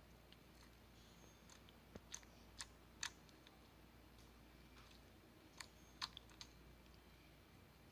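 A handful of faint, sharp clicks and small taps, scattered irregularly over a few seconds, against a low steady hum.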